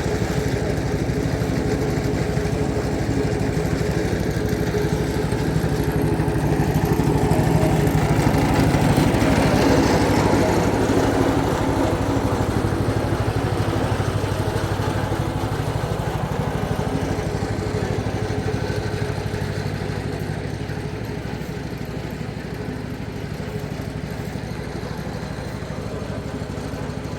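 A small engine running steadily, swelling louder about eight to eleven seconds in and easing off somewhat near the end.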